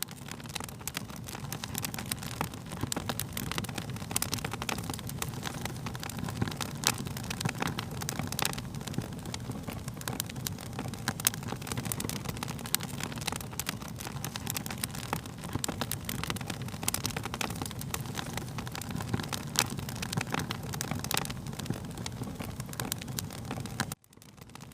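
Wood fire crackling, with frequent irregular sharp pops and snaps over a steady low rumble of burning. The sound drops out briefly near the end.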